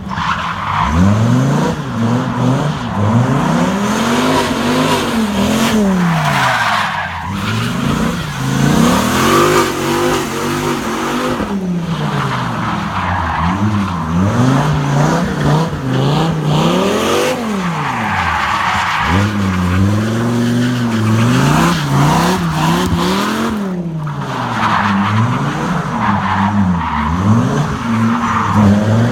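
Toyota Soarer with a swapped-in Dodge Viper V10 drifting: the engine revs up and drops back again and again, over a steady hiss of tyres skidding and squealing.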